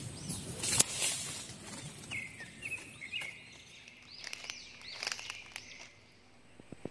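Small birds chirping in short repeated calls in forest background, with a few scuffs and rustles in the first second.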